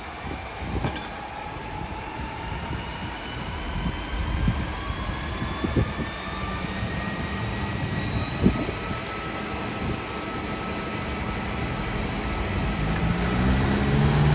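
Aircraft passing over, a steady engine rumble with slowly sliding tones, growing louder toward the end.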